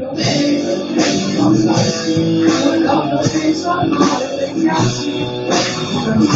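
Rock-style band music with guitar and drum kit playing a steady beat.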